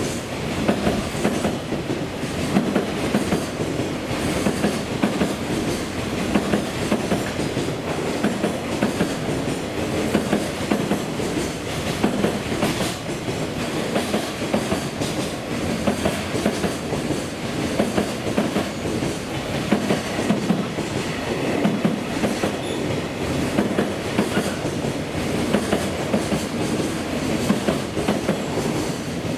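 Container wagons of a long freight train rolling past at speed: a steady rumble of steel wheels on rails with a continual clickety-clack.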